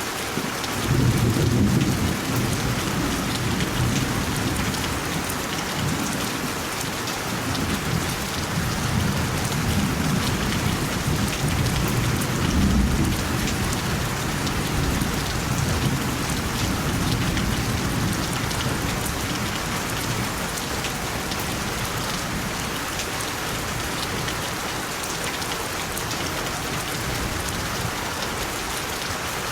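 Steady rain hissing, with a long rolling rumble of thunder that starts about a second in, swells and ebbs, and slowly dies away.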